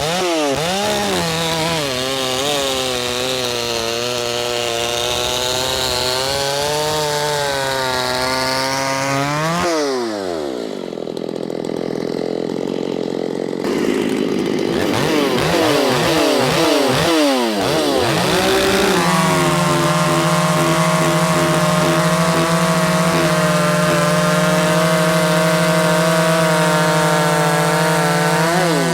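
Shindaiwa 757 two-stroke chainsaw cutting a log with a stock chain, its engine pitch wavering as the chain bites into the wood. About ten seconds in, it drops to a low idle, revs back up a few seconds later, and then runs steady at high speed before falling away at the very end.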